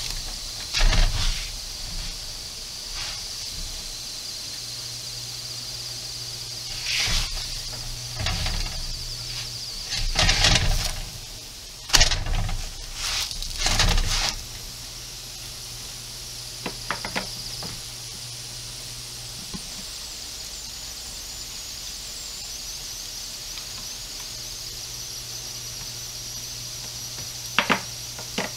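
Layered flatbreads sizzling on a hot griddle, a steady high hiss. Louder bursts over the first half come as the breads are pressed and turned by hand, with a few short clicks later on.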